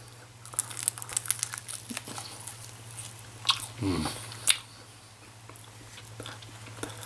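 Close-up mouth sounds of a man biting and chewing a barbecued chicken drumstick: a run of wet clicks and smacks, then a short hummed "mm" about four seconds in and one more sharp click. A steady low hum runs underneath.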